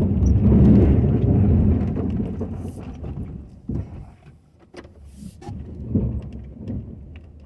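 Ford F-250 plow truck's engine running with a low rumble, loudest in the first two seconds and then fading away. A few short knocks follow.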